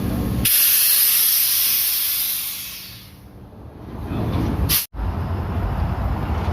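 A loud hiss of compressed air lasting about two seconds, then fading away. After a sudden cut near the end, a low steady rumble.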